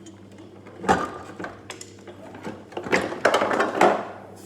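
Objects being handled: a sharp knock about a second in, then a run of clattering knocks and scraping near the end, over a steady low hum.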